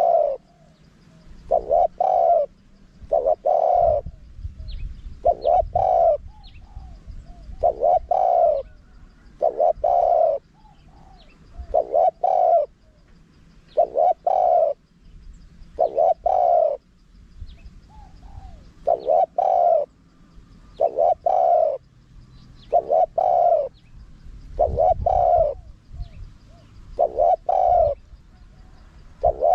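Spotted dove cooing in a wild, small-voiced style, used as a lure call. A short run of coos repeats about every two seconds.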